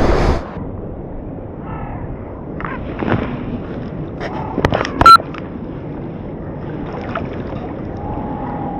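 Shallow water sloshing and lapping, with a louder splashy rush in the first half second and a few small sharp knocks and clicks in the middle.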